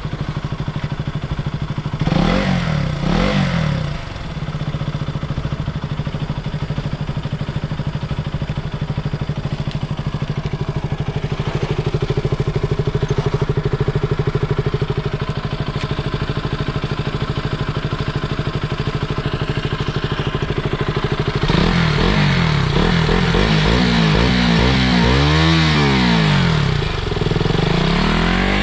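KTM Duke 200's single-cylinder engine idling steadily, blipped once about two seconds in. Near the end it is revved up and down several times in a row.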